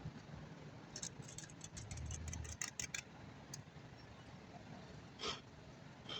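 A quick run of light clicks and rattles for about two seconds, then two single clicks near the end.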